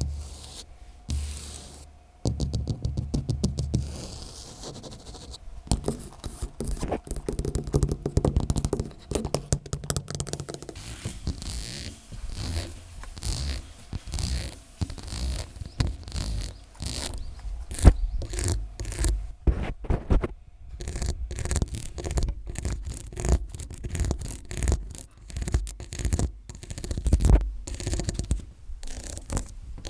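Close-up scratching and tapping right on a smartphone microphone, made with long fingernails, in quick irregular strokes with some low handling rumble.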